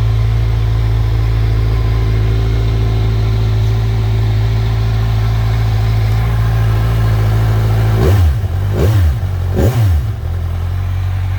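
Kawasaki Z1000SX inline-four engine idling steadily, then revved three times in quick succession by short blips of the throttle near the end, each dropping straight back to idle.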